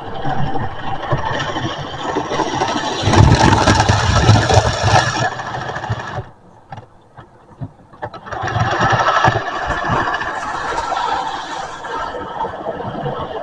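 Model train running along the track: motor hum with rapid clicking and rattling of wheels over the rails. It is loudest a few seconds in, falls almost silent for about two seconds past the middle, then comes back.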